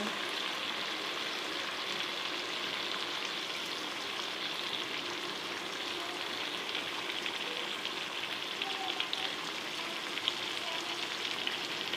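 Chicken and ground-spice masala frying in oil in a pot: a steady sizzle, the masala fried to the point where the oil has separated. A few light clicks come in the second half.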